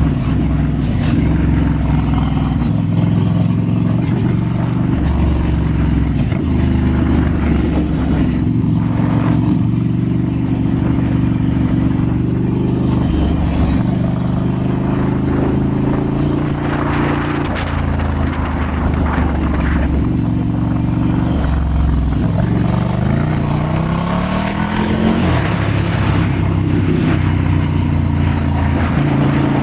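Ducati Scrambler's L-twin engine running under way, its pitch stepping up and down with throttle and gear changes and climbing steadily in revs about three quarters of the way through.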